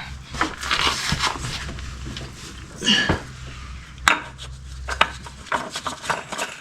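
Irregular knocks, clicks and scraping of objects being handled, over a low steady hum.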